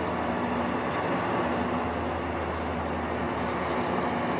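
Steady engine drone with a low hum, even and unbroken.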